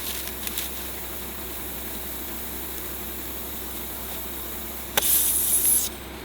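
Steady low engine hum. About five seconds in, a click and a short, loud hiss of compressed air at a tire valve stem.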